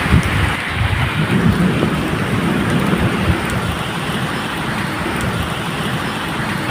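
Steady medium rain with low rumbles of thunder, the rumble swelling most in the first two seconds.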